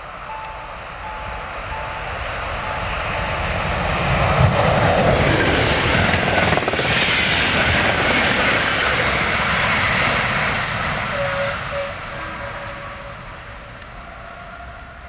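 Passenger train passing at speed: a rushing noise of wheels on rail and air that swells as it approaches, stays loud for about seven seconds as the coaches go by, then fades away.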